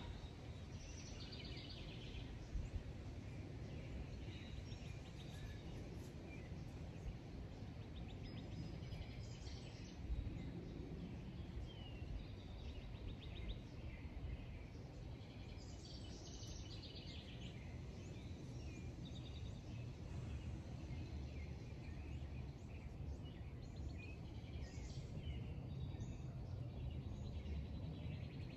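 Birds chirping and trilling on and off, over a steady low background rumble.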